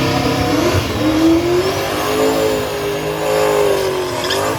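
A drag-racing engine running hard under throttle, its pitch climbing about a second in and then holding high with small rises and falls.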